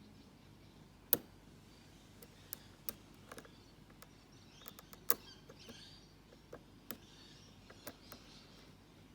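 Lock pick working the pins of a Mako padlock under tension: a string of irregular small metallic clicks, two of them louder, about a second and five seconds in, with faint scraping of the pick in the keyway between about four and eight seconds in. The clicks are the serrated security pins catching against the shear line.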